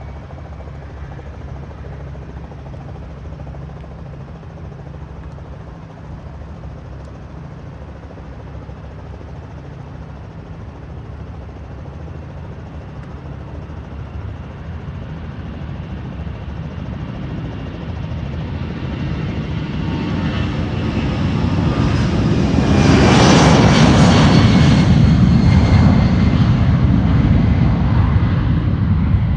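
Jet airliner's engines at takeoff power: a low rumble that swells as the plane comes nearer, is loudest about three-quarters of the way through with a high whine in the roar, then begins to fade as it passes.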